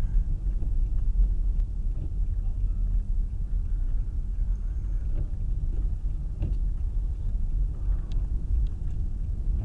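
Steady low rumble of a car driving on a snow-covered road, with a few faint knocks.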